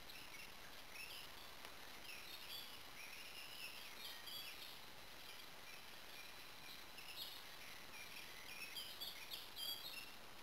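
Wild songbirds chirping and singing in short warbling phrases over a steady background hiss, with the calls coming thicker near the end.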